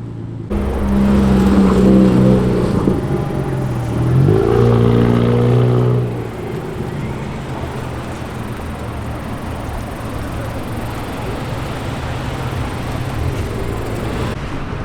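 Car engine running loud, its pitch dipping and rising again about four seconds in. From about six seconds it gives way to a quieter, steady rumble of cars.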